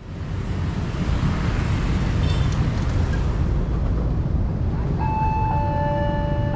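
Road traffic and wind rumble at a level crossing. About five seconds in, the crossing's electric warning siren starts: a steady electronic tone, joined half a second later by a lower one, signalling that a train is approaching.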